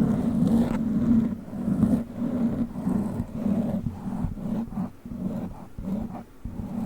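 Witch-finger toy rubbing and scratching over a foam-covered microphone: a low, rumbling scrape in uneven strokes, with a few brief pauses.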